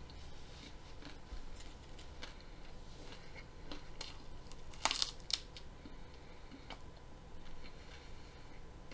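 Raw broccoli being bitten and chewed close to the microphone: scattered crisp crunches, with a louder, sharper crunch of a bite about five seconds in.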